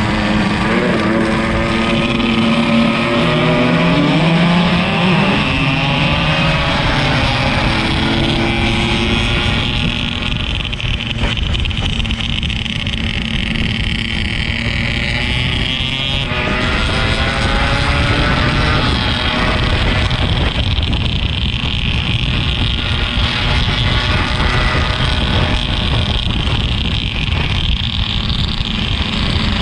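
Yamaha RX-King 135 two-stroke single-cylinder motorcycle engine running on the move, its pitch rising and falling as the throttle and gears change, under a steady loud rush of riding noise.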